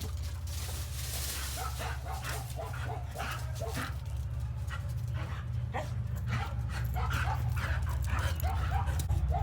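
A dog whining and yipping over and over, in short rising and falling cries, over a steady low hum.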